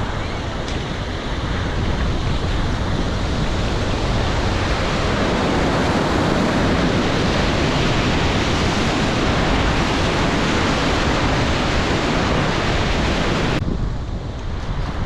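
Rushing river water, with wind buffeting the microphone. The hiss thins suddenly near the end, leaving a duller rush.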